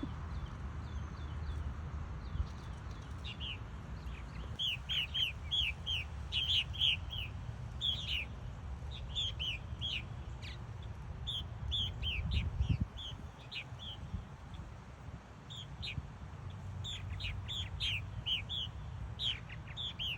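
Purple martins chirping: many short, falling calls, some alone and some in quick runs. A steady low rumble lies underneath.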